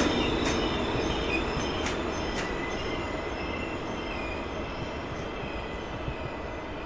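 A train running along the station tracks, its noise dying away steadily, with a thin high wheel squeal and a few sharp clicks from the wheels over the rail joints early on.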